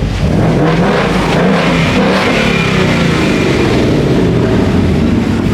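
Car engine revving hard at high rpm, the pitch rising and falling, over a loud wash of engine and tyre noise.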